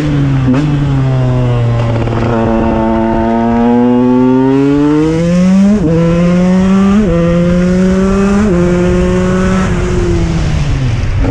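KTM 125 EXC single-cylinder two-stroke engine accelerating hard, its pitch climbing, then rising again after sudden drops about six, seven and eight and a half seconds in as it shifts up through the gears. Near the end the revs fall away as it slows down.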